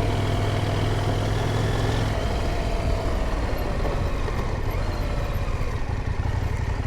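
Adventure motorcycle engine running while riding. The steady engine note breaks up into a rougher, uneven sound about two seconds in and settles back near the end.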